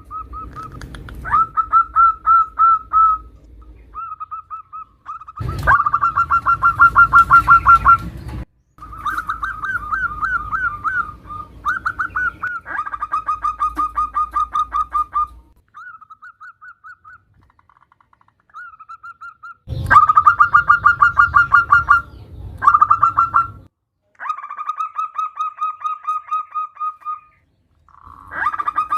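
Zebra dove (perkutut) calling in repeated bouts of rapid, evenly spaced staccato notes, each bout lasting one to three seconds with short pauses between. It is offered as a female's call that draws males to answer and sing.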